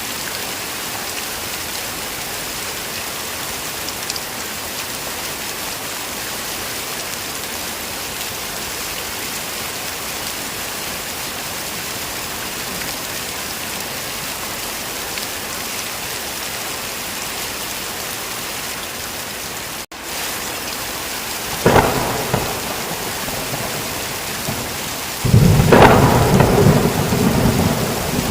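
Steady heavy rain, then thunder: a sharp crack about three-quarters of the way through and a loud rolling rumble that starts near the end and carries on.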